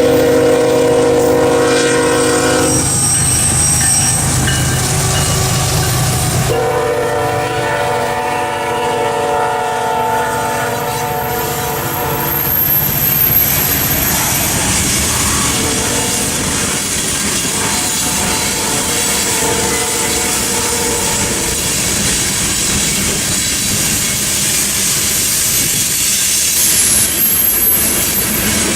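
Locomotive air horn sounding a chord in blasts, one to about three seconds in, a longer one from about six to twelve seconds, and a fainter one later, over the steady rolling and clatter of a passing train's wheels on the rails, with a thin high wheel squeal at times.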